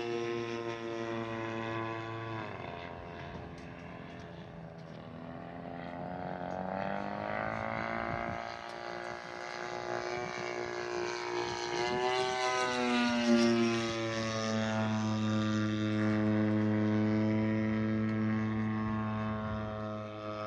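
Radio-controlled model airplane's engine running in flight. Its pitch drops sharply about two seconds in, climbs again, dips briefly past the halfway point, then holds steady, as the plane passes and changes throttle.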